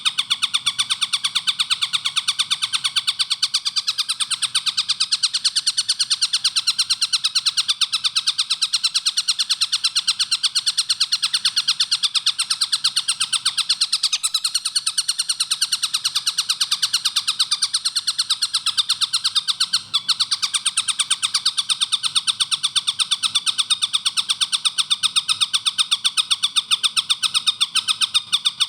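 Collared kingfisher (tengkek buto) calling in an unbroken, very fast run of closely spaced shrill notes at a steady level.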